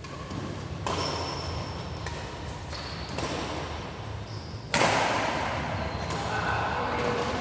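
Indoor court game in a sports hall: sharp hits, the loudest about two-thirds of the way through, and short high squeaks like sports shoes on the court floor, over echoing hall noise.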